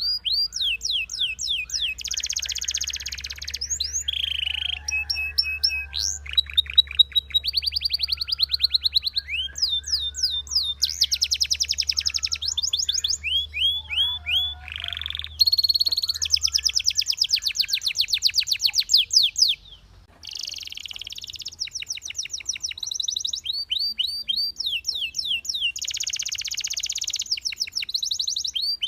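Canary singing a long song of rapid trills, phrase after phrase of fast repeated down-sweeping notes, with a brief break about twenty seconds in. A faint low hum sits beneath the song for the first two-thirds.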